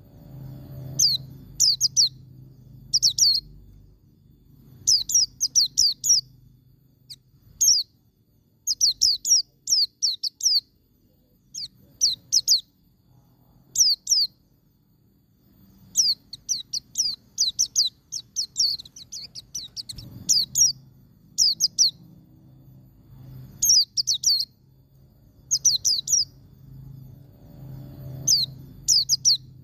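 A white-eye (pleci) singing its 'ngalas' song: short bursts of quick, high, thin notes, each sliding sharply downward, repeated every second or two, with a longer rapid run near the middle.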